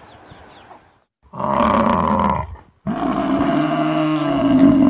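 Faint chick peeping, then two loud, drawn-out calls from a large animal: the first about a second long, the second about two seconds.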